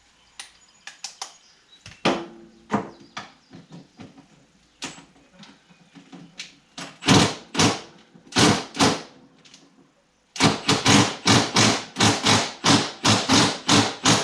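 Repeated hammer blows on metal. They start as scattered lighter knocks, become heavier strikes about half a second apart, then settle into a steady run of about three blows a second from about ten seconds in.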